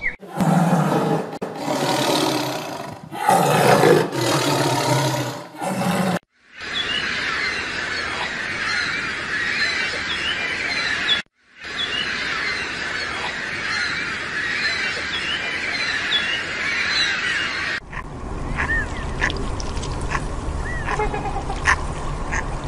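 A run of animal sounds joined by cuts: first three loud, low calls, then a dense chorus of chirping birds, and near the end a few scattered chirps over a low rumble.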